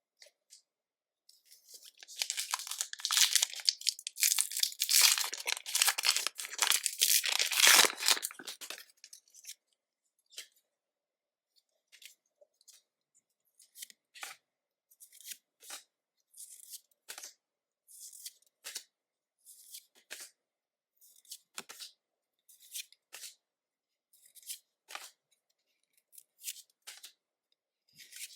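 Foil booster pack of trading cards torn open, its wrapper crackling and crinkling for several seconds, then a string of short card flicks, roughly one a second, as the cards are handled one by one.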